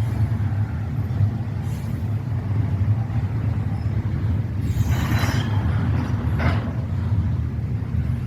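Freight train cars rolling past with a steady low rumble of wheels on rail. Two brief higher-pitched noises rise over it about five and six and a half seconds in.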